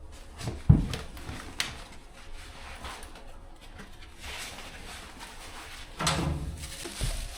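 Someone handling gear and moving about inside a train car: scattered knocks and thuds with rustling, the sharpest thump about a second in and a heavier thud near the end.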